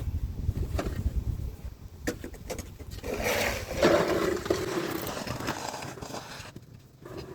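Snow shovel scraping snow off pavement: a few sharp knocks, then a longer scrape about three seconds in.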